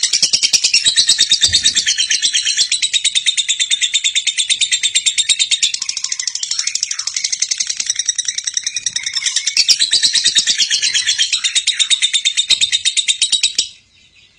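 Lovebird singing its long 'ngekek' chatter: a continuous, rapid, high-pitched trill of many notes a second that stops abruptly near the end.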